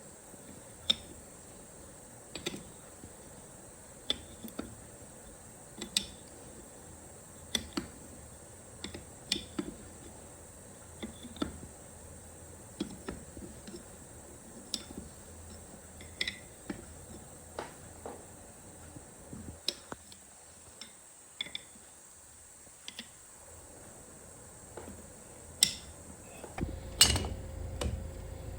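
Light metallic clicks and knocks, one every second or two, from steel parts and tools being handled on a truck steering column being reassembled. Near the end, a steady low hum starts up along with a few louder knocks.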